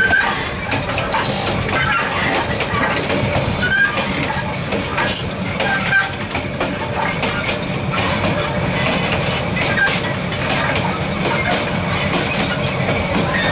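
Train wheels running on the track, heard through the open gap between two coaches: a continuous rumble full of clacks and knocks, with brief high squeals from wheel and coupling.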